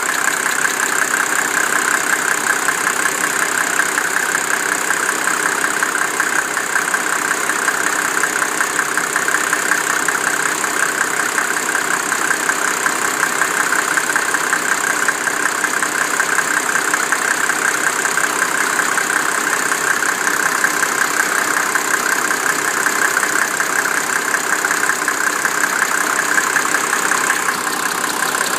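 Mercedes 300SDL's 3.0-litre turbodiesel straight-six idling steadily at operating temperature, with a ticking that comes in and out. The owner cannot tell whether it is an injector, the vacuum pump, sticking valves or timing chain slap; it appears only at warm idle after the car has rested, and goes away after a few minutes of driving.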